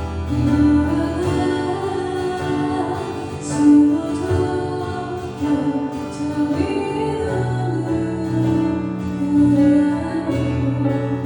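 A song performed live: a voice singing long held notes over instrumental accompaniment.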